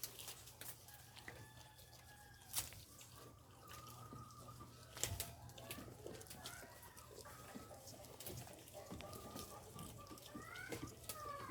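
Chickens clucking on and off, with a couple of sharp clicks or knocks about two and a half and five seconds in.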